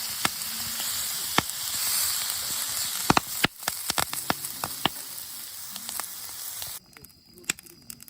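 Campfire burning: a steady hissing sizzle with sharp crackling pops scattered through it. The sound cuts off abruptly near the end, leaving a much quieter background with a few faint ticks.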